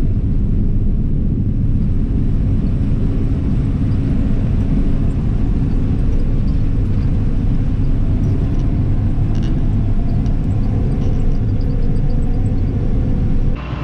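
A vehicle engine running steadily under a constant low rumble, with no change in speed or load.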